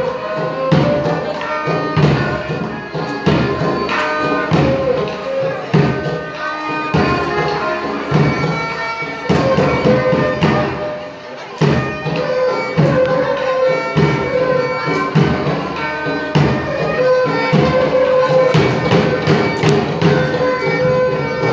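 Traditional Manipuri Lai Haraoba dance music: a steady beat of struck percussion, about two strokes a second, under a held, reedy melody line.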